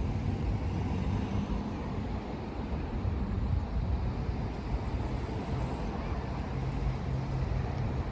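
Passenger train running, heard from inside the carriage: a steady low rumble, with a faint low hum joining in the second half.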